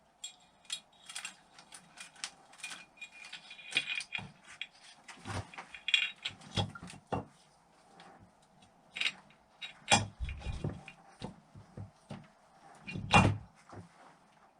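Irregular small metallic clicks and clinks of hand tools and engine parts being handled during reassembly of a Honda XL600 engine, with a few louder knocks about six, ten and thirteen seconds in.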